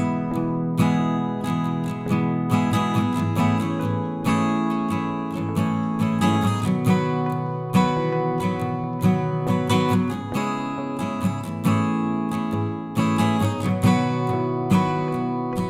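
Background music: acoustic guitar picked and strummed with a steady rhythm.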